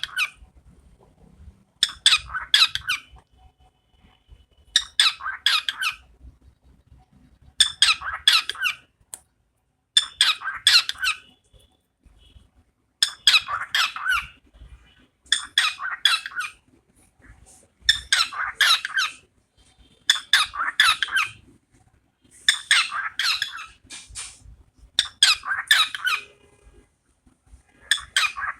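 A bird giving harsh squawking calls over and over, each about a second long, repeated at a steady pace roughly every two and a half seconds.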